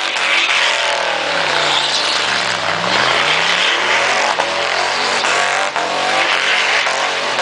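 Mini truck's engine held at high revs during a burnout, its pitch sagging over the first few seconds and then climbing again, over a loud hiss of noise.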